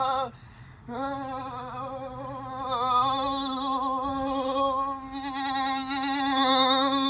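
Callaway washing machine's motor whining at a steady but wobbling pitch as the drum is driven in a destruction run; it cuts out briefly just after the start and comes back about a second in.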